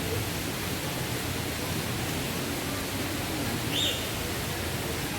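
Steady rushing outdoor background noise, with one short high bird chirp a little before four seconds in.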